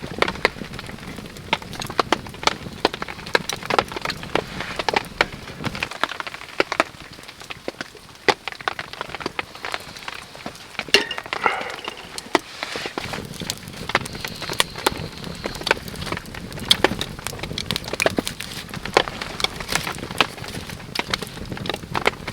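Wood campfire crackling and popping in irregular sharp snaps, with rain pattering steadily around it.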